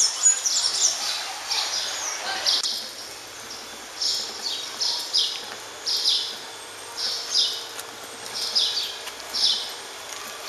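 Birds chirping in the trees overhead: short, high, falling notes in quick groups of three or four, repeating about every second, over a steady low street hum.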